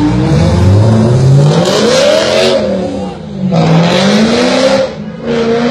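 A sports car's engine revving twice. Each time its pitch climbs and then falls, with a short drop in level between the revs.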